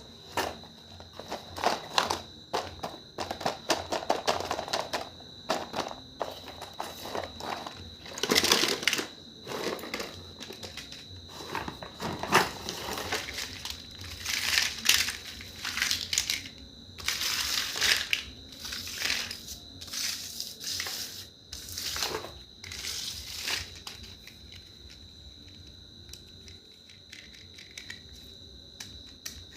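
Crinkling and clattering in irregular bursts, with many sharp clicks, over a steady high-pitched tone; the bursts die away about three-quarters of the way through.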